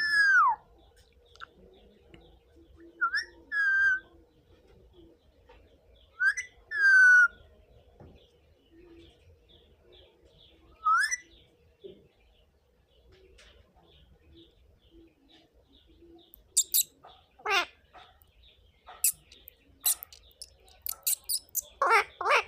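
Indian ringneck parrot (rose-ringed parakeet) calling: loud whistled calls that rise and then fall in pitch, a few seconds apart. Past the middle comes a quiet stretch, then a quick run of short, sharp chirps and clicks.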